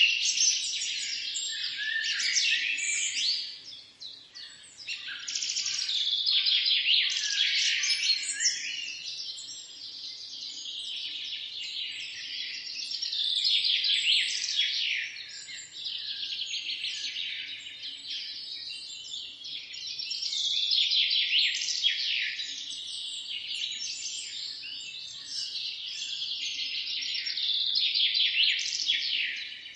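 Many small birds chirping and singing at once in a dense, continuous dawn chorus. It swells and eases every few seconds, with a brief lull about four seconds in.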